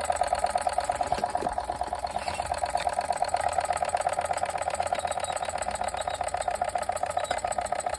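Small oscillating-cylinder toy steam engine running fast and steadily, with a rapid, even beat of exhaust puffs.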